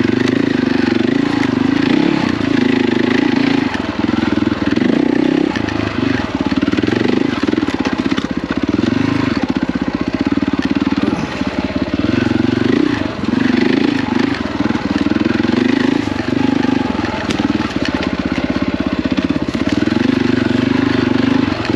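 KTM 450 EXC enduro motorcycle's single-cylinder four-stroke engine running hard, its pitch rising and falling continually as the throttle is worked on and off.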